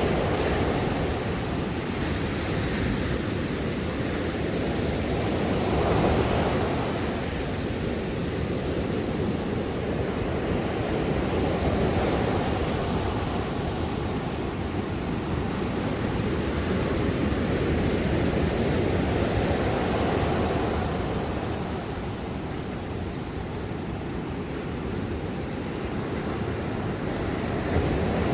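Ocean surf washing onto a beach: a steady rush of waves that swells and eases every several seconds, quieter for a few seconds near the end.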